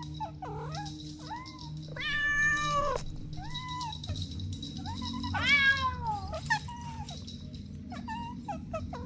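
Kittens meowing repeatedly: a string of short, high meows, with two longer, louder meows about two seconds in and around the middle.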